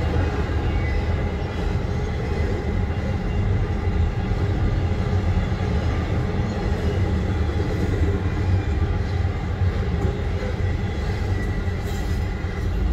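Freight train rolling through a level crossing: a continuous, steady rumble of wagons and wheels on rail, heard from inside a stopped car.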